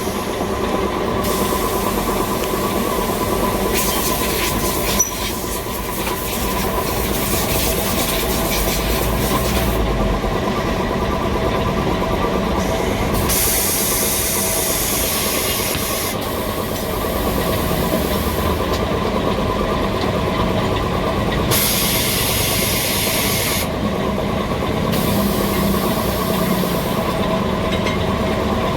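Motorcycle tyre changing with air-powered workshop equipment: a steady mechanical hum from a running motor or compressor, with about five separate bursts of air hissing that each last one to three seconds.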